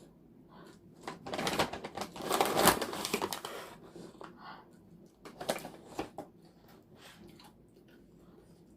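Close, dry crackling and crunching of a crisp chip snack. It is densest from about one to four seconds in, followed by a few sharp single crunches a little past the middle.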